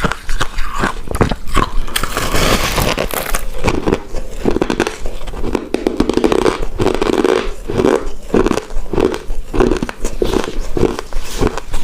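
Close-miked chewing of a soft, chewy coconut-covered rice cake: wet mouth clicks and smacks throughout, a brief rustle about two seconds in, then a steady chewing rhythm about twice a second.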